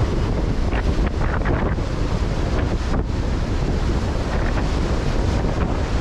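Strong wind buffeting the microphone over waves breaking and washing in, with brief surges of hissing surf in the first couple of seconds.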